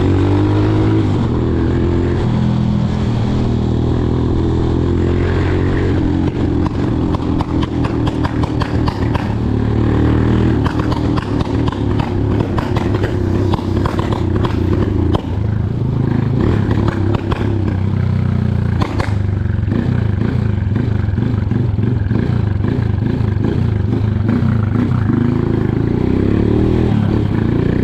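Motorcycle engine running under way, its pitch rising and falling with the throttle. Through the middle stretch it comes with a dense run of rattles and knocks, typical of a bike jolting over a rough road.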